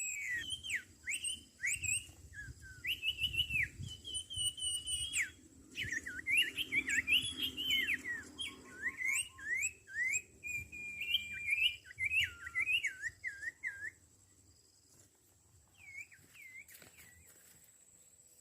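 Sirtu (sirpu) birds calling in a fast, talkative run of sharp whistles that swoop up and down, dying away about fourteen seconds in and returning briefly as a few calls near the end. A faint steady high tone runs underneath.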